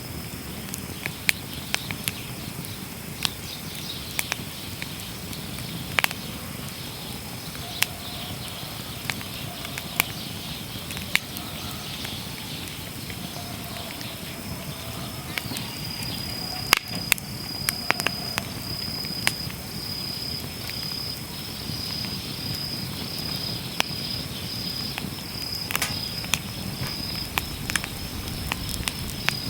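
Wood campfire burning in a Snow Peak fire pit: irregular sharp crackles and pops over a steady hiss. A high, thin insect trill runs alongside and turns into rapid pulses about halfway through.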